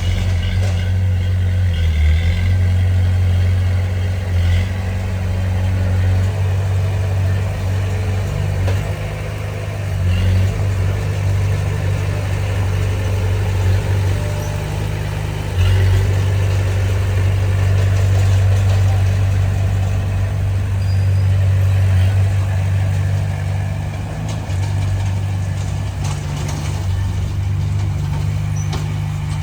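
Komatsu D20P bulldozer's diesel engine running steadily under work, its low hum easing off for a few seconds and then coming back strongly about halfway through.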